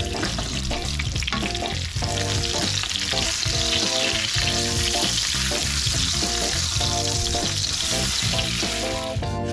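Hot oil sizzling and spitting around flour-coated halibut fillets pan-frying in a sauté pan. The sizzle grows louder about two seconds in. Background music with a steady beat plays underneath.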